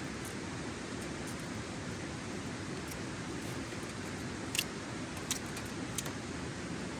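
Steady rushing of a river, with three sharp clicks in the second half.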